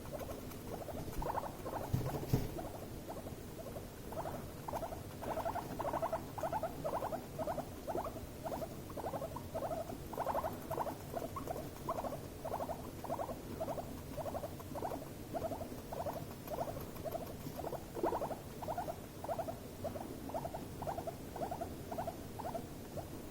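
Guinea pig giving a long run of short buzzing, pulsed calls, about two a second, a sign of stress between the animals. A sharp knock sounds about two seconds in.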